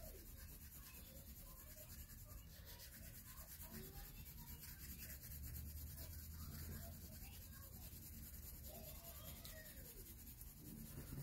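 Faint rubbing of a colouring tool on paper while shading in.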